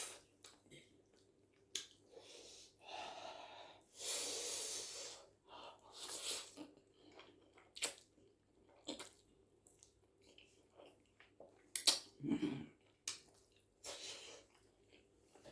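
A person eating spicy spaghetti up close: chewing and mouth noises with several hissing breaths of about a second each, which she takes as a sign of the food being very spicy, and a few sharp clicks.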